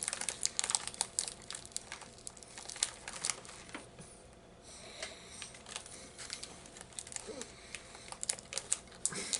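A person chewing a dry, soft grape-must cookie close to the microphone: irregular small clicks and crackles from the mouth, with a short lull about four seconds in.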